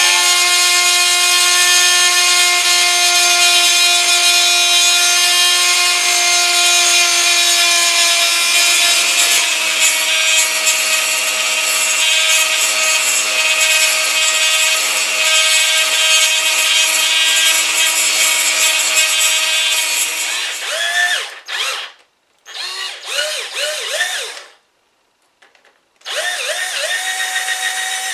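Dremel rotary tool with a burr grinder bit grinding epoxy glue and filler off a diecast zinc toy casting. A steady high whine runs for about twenty seconds and dips slightly in pitch partway through as the bit bites. The tool then stops and is run in two short bursts, each spinning up.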